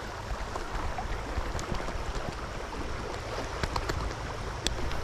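Fast-flowing stream water rushing steadily, with a few faint ticks over it.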